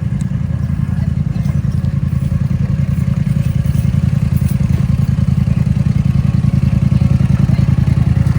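ATV engine running hard and steady close by, its low exhaust note getting a little louder toward the end.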